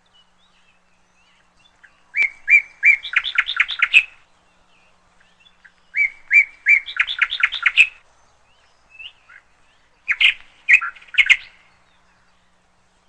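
Caged canary chirping in three short bursts, each a few spaced notes that speed up into a quick run of chirps.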